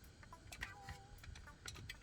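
Faint, irregular clicks and taps of a metal tool prying at an engine cover, with quiet background music.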